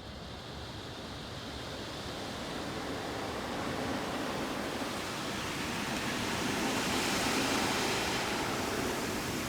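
Touch-free car wash gantry spraying water onto the car, a steady hiss and patter that slowly grows louder as the spray arch comes closer, heard from inside the car.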